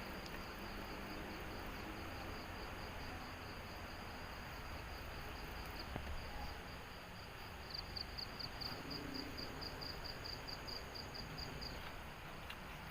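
Night insects calling in forest: a steady high-pitched trill, with a run of rapid chirps at about five a second in the second half.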